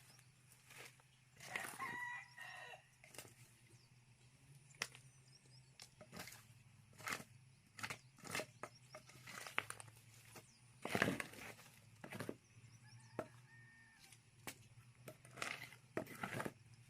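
Chickens clucking, with a rooster crowing about two seconds in, among frequent sharp knocks and clatters, the loudest about eleven seconds in.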